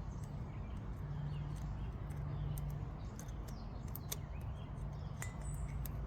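Faint birds chirping over a steady low hum, with a few light clicks about two-thirds of the way in.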